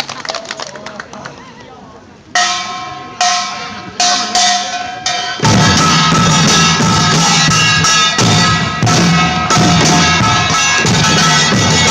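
Live percussion music. A fading tail leads into a handful of single struck notes that ring with a pitch, about a second apart. About five and a half seconds in, the full group comes in loud, playing a fast, steady driving rhythm.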